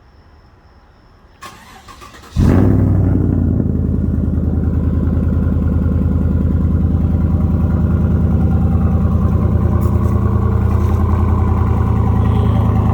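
A 2014 Chevrolet Silverado's engine remote-started through an open dual exhaust with the muffler, resonator and secondary catalytic converter deleted: brief cranking, then it catches a couple of seconds in with a short rev flare and settles into a loud, steadily pulsing idle.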